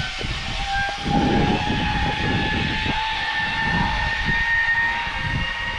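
Zipline trolley pulleys running along the steel cable with a steady high whine, while wind rushes and buffets the microphone in uneven gusts.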